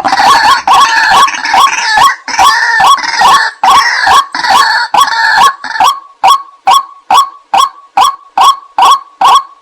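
White-breasted waterhen calling: a dense run of repeated harsh, croaking phrases that, about six seconds in, settles into single short notes at about two a second.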